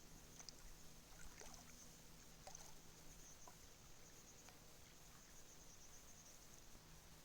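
Near silence: faint outdoor ambience with a steady high-pitched hiss and a few faint ticks.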